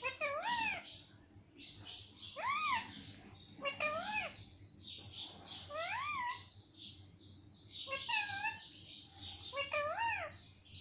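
Pet parrot calling over and over: about six short calls that rise and fall in pitch, coming every second and a half or so.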